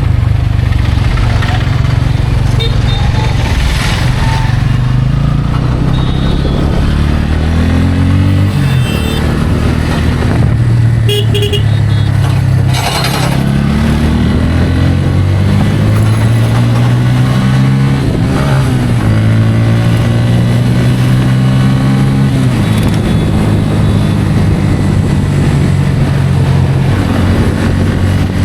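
Bajaj Pulsar N160's single-cylinder engine under way, its note rising and falling back several times as the throttle opens and closes. A few short horn toots sound.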